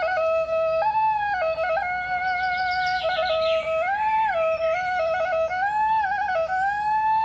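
A slow solo flute melody in traditional Khmer style, its held notes sliding smoothly up and down. A quick, high bird-like trill sounds in the background a few seconds in.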